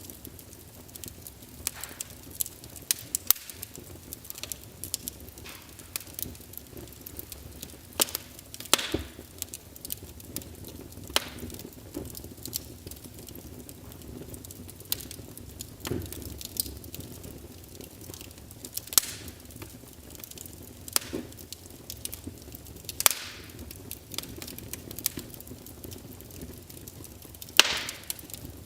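Log fire crackling in a fireplace: a constant run of small crackles over a soft hiss, with louder sharp pops every few seconds.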